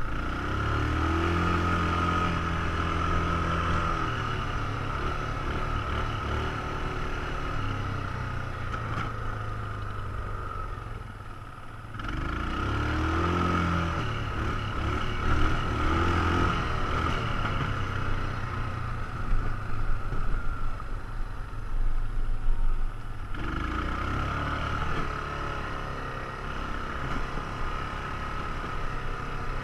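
ATV engine running under changing throttle: it revs up and down, eases off briefly about a third of the way in, then pulls again, with scattered sharp knocks and rattles midway through.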